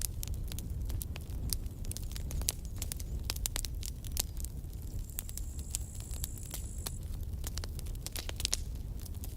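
Campfire burning, wood crackling and popping in quick irregular snaps over a low rumble. A thin high hiss rises in about halfway through and stops after a couple of seconds.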